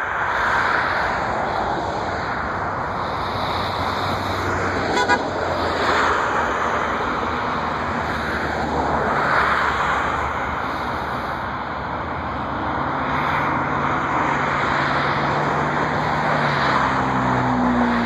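Road traffic: a steady wash of vehicle noise with cars swelling past every few seconds and low engine hums shifting near the end.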